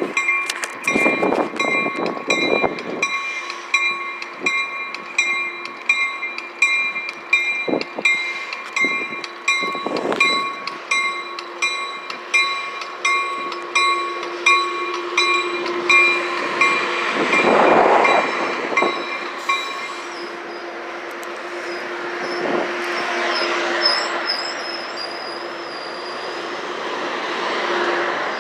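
Caltrain train passing, with a bell ringing rapidly and evenly over the train's rumble; the bell stops about twenty seconds in. The train rolls on with a faint high wheel squeal.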